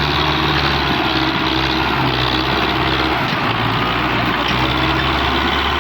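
Diesel engine of a Massey Ferguson 260 tractor running steadily and loudly, its low hum briefly dropping away a little past halfway through.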